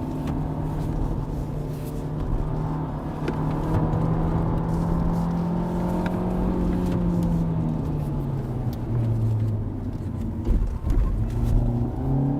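Hyundai Avante's four-cylinder engine and CVT heard from inside the cabin under hard acceleration: the engine note is held at one high pitch for several seconds, as a CVT does, then drops lower and climbs again near the end. It carries the CVT's metallic whine, which the drivers find grating, and a few brief knocks come about ten seconds in.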